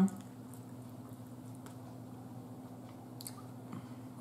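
Quiet chewing of a mouthful of food, with a faint click about three seconds in, over a steady low hum.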